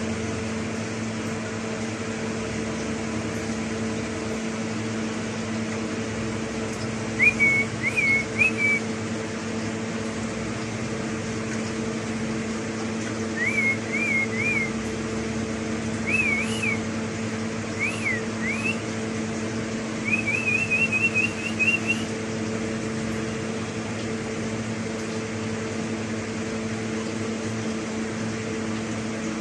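A pet parrot giving short bursts of quick, zigzagging whistled notes, five times, the last a fast run of repeated notes, over a steady low hum.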